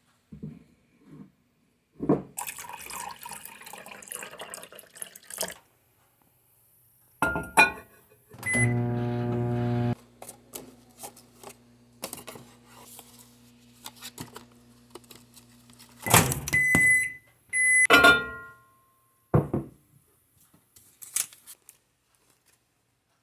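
Rustling and handling noise, then an electrical appliance beeps and runs with a steady low hum for about seven seconds, loudest at first. It stops with several short high beeps, among clunks.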